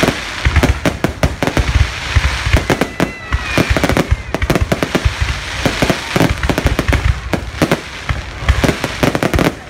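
Aerial fireworks shells bursting in a rapid, continuous barrage of bangs and crackles, many overlapping at once.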